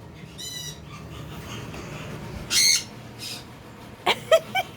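Pet parrots calling: a short high call about half a second in, a louder high call near the middle, and a few quick sharp chirps near the end.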